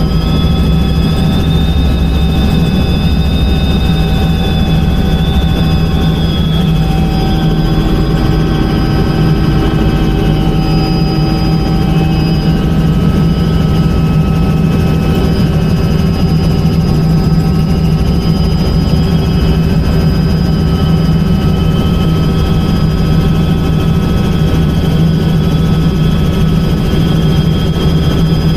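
Helicopter turbine and rotor running steadily and loudly, with a high turbine whine that drifts slightly up and down in pitch over a constant low drone.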